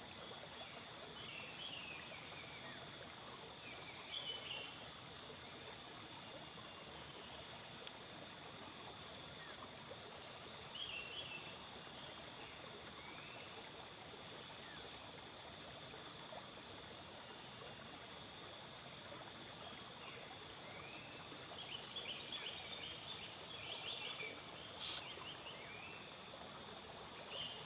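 Insects in chorus: a steady high-pitched drone with a second, rhythmic pulsed trill repeating every few seconds. Short bird chirps come in between, more of them in the second half.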